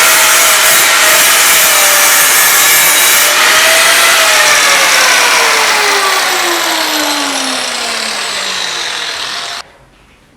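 Power tool running with a loud rasping noise. Its motor whine holds steady at first, then falls in pitch over the last several seconds before the sound stops abruptly near the end.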